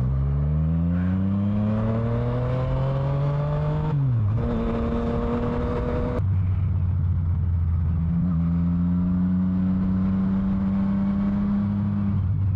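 Motorcycle engine accelerating through the gears. The revs climb steadily for about four seconds, drop at an upshift, change again about six seconds in, then hold steady at cruising speed.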